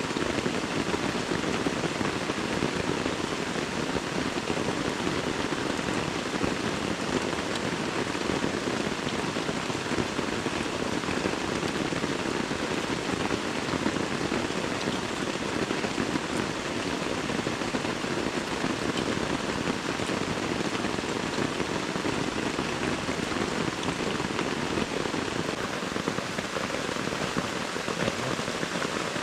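Heavy rain pouring down steadily in a tropical rainforest, an even unbroken patter of drops.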